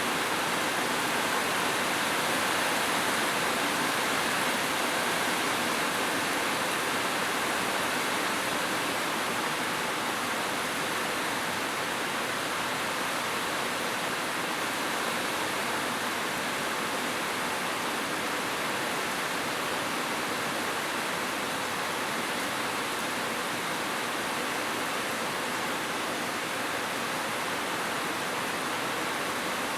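Heavy rain falling on a roof, a steady, even hiss with no thunder.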